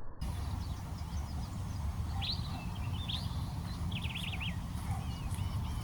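Several short bird chirps and a quick trill, over a steady low rumble.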